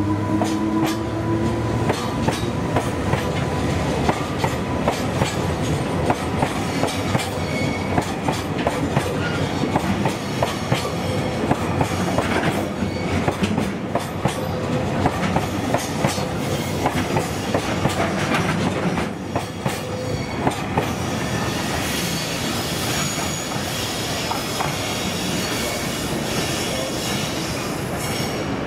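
A freight train of rail tank wagons rolling by, its wheels clicking over rail joints in an uneven clickety-clack. Some thin high-pitched wheel squeal joins in the latter part.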